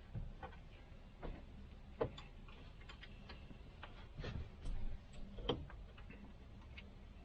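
Irregular light clicks and taps from hand work on a truck's steering-column gear shifter as parts are fitted back together, with two sharper knocks, about two seconds in and near five and a half seconds.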